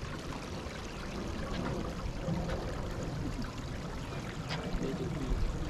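Running water trickling steadily, with faint voices in the background.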